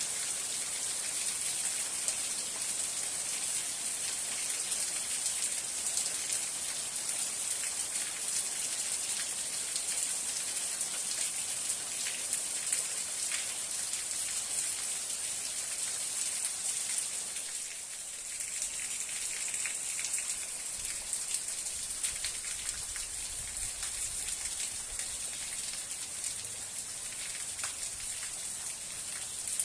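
Steady rain: a dense, even hiss with separate drops ticking through it. It eases slightly for a moment about eighteen seconds in, then carries on.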